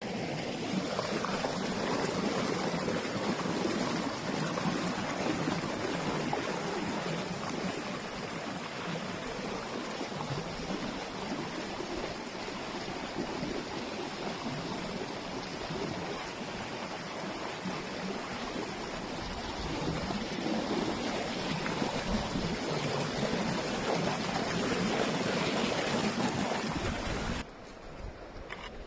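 Steady rush of flowing stream water. It drops off suddenly near the end.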